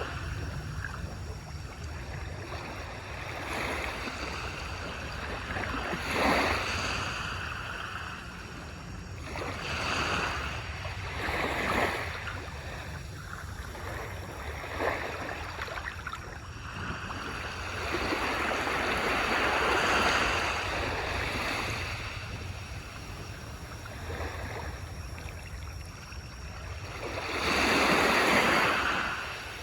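Ocean waves washing onto a beach, each swell of surf rising and falling over a steady low rumble, with the largest breakers about two-thirds of the way through and near the end.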